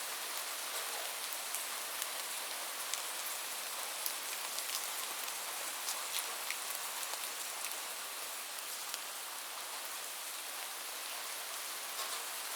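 Steady rain falling, a constant hiss with individual drops ticking sharply through it.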